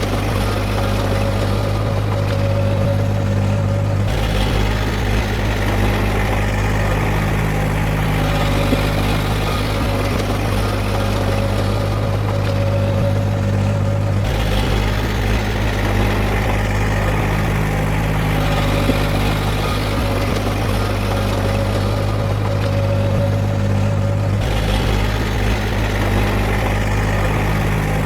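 Diesel engine of heavy earthmoving machinery running steadily with a deep hum; the sound shifts abruptly three times, about every ten seconds.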